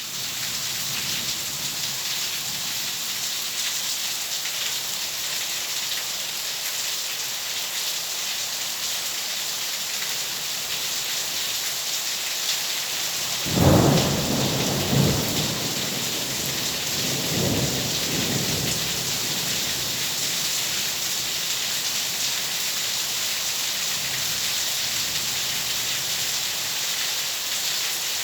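Steady heavy rain, with a thunderclap about halfway through that rumbles on for several seconds, swelling again a couple of times before it fades back into the rain.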